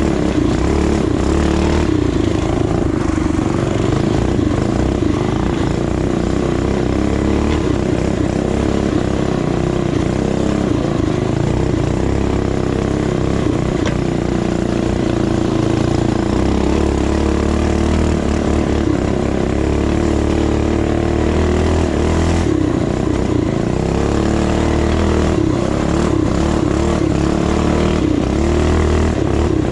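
Small single-cylinder four-stroke minibike engine running under way, its note rising and falling a little with the throttle, over steady wind and road noise.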